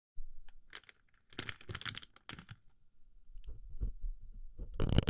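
Close-up crackling and clicking of small plastic BB pellets rubbed and packed against a binaural microphone's ear. There are dense clusters of crackle in the first half, then scattered single clicks, and the loudest crackling burst near the end.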